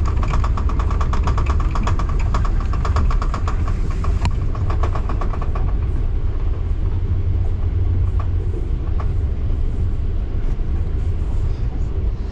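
Local passenger train running on rails, a steady low rumble with rapid regular wheel clicks, about five a second, for the first half, thinning to a few scattered clicks later.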